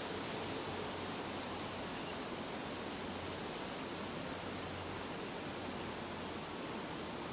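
Insects, such as crickets, chirping in a high, steady trill that breaks off briefly now and then.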